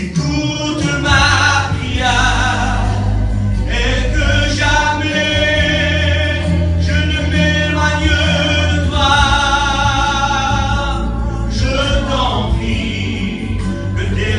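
Christian worship song sung by several voices over a steady bass accompaniment, with long held notes.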